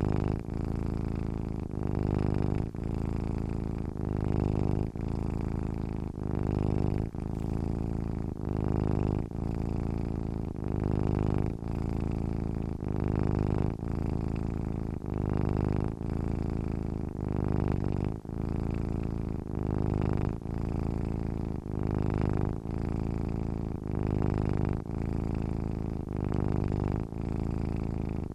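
Domestic cat purring while asleep, a low buzzing purr that swells and dips with each breath about once a second.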